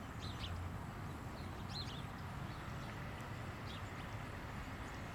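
Outdoor ambience: a few short, high bird chirps over a steady low rumble.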